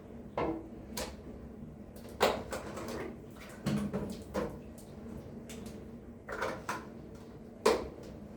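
Household objects being handled: a string of separate sharp knocks and clacks, about seven in eight seconds. The loudest come a little over two seconds in and near the end.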